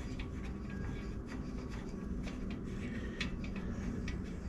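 Small clicks and rubbing of hand-held parts and tools being handled at a workbench, over a steady low hum.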